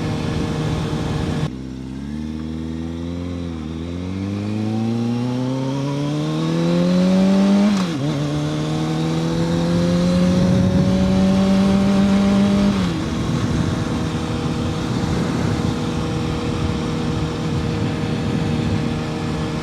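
2006 Kawasaki ZX-6R 636 inline-four engine accelerating: the revs climb for several seconds, drop at a gear change about eight seconds in, climb again more slowly, then fall away about thirteen seconds in as the throttle is rolled off, leaving a steady engine drone.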